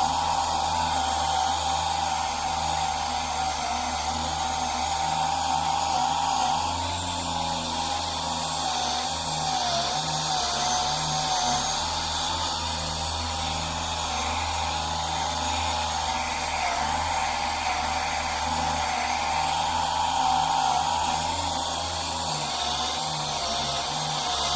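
Workpro 12-volt cordless 3-inch polisher running at high speed, buffing plastic polish on a headlight lens: a steady motor whine that wavers slightly in pitch.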